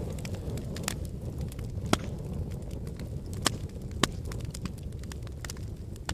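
Fire burning in a fireplace: a steady low rumble of the flames with irregular crackles and sharp pops, the loudest pops about two, three and a half, and four seconds in.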